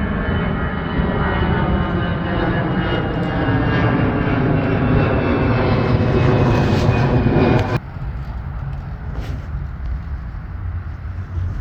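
Jet airliner passing low overhead: a loud engine rumble with a high whine that slowly falls in pitch as it goes by. It cuts off abruptly about eight seconds in, leaving quieter outdoor noise.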